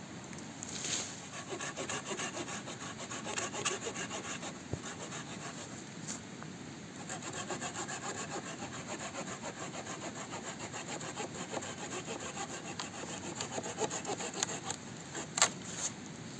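Hand saw cutting through wood in quick, even back-and-forth strokes, with a short pause about six seconds in.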